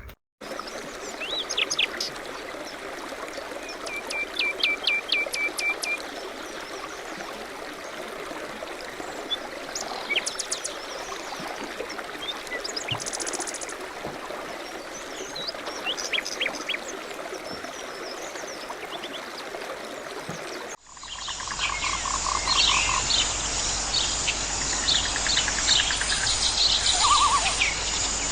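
Natural outdoor ambience of birds chirping in short repeated series over a steady background hiss. About 21 seconds in the ambience changes abruptly to a louder, denser chorus of chirping birds with a steady high insect hiss.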